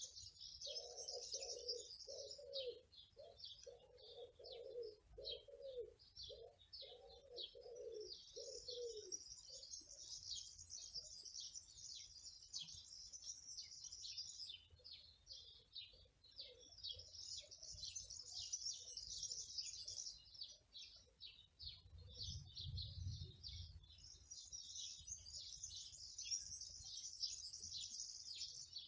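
Small songbirds chirping and twittering in rapid high phrases, with a pigeon cooing a run of about ten low, evenly spaced notes for the first nine seconds or so. A brief low rumble comes about two-thirds of the way through.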